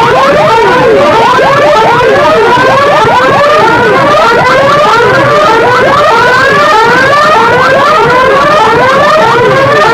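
Electronic siren effects blasted from loudspeaker sound systems: many rising whoops overlap and repeat about once a second, at full volume.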